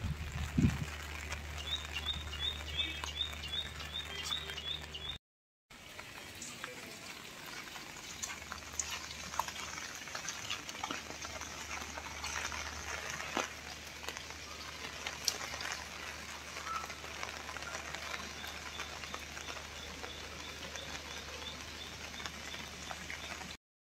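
Light rain pattering steadily, with a bird twice giving a quick run of short, high chirps.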